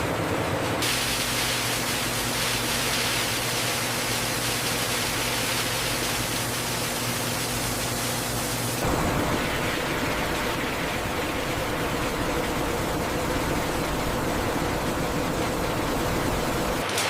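Steady industrial machinery noise: an even hiss with a faint low drone. Its character changes abruptly about a second in and again about nine seconds in.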